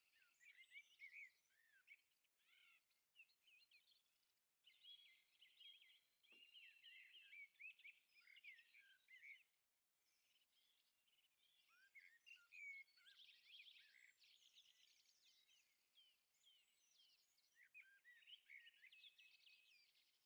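Faint birdsong: several small birds chirping and singing quick trills. There are short lulls about four and ten seconds in.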